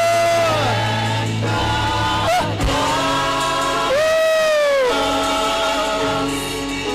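Gospel worship singing: a voice holds long notes that sag in pitch at their ends, over sustained accompaniment chords.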